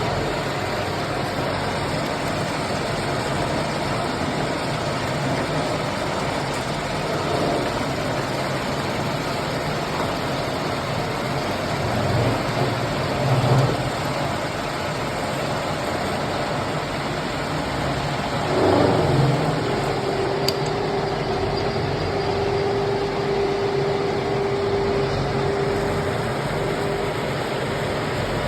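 Lathe running steadily while turning a submersible pump rotor, with a couple of brief louder swells. A steady tone sounds over the machine for several seconds past the middle.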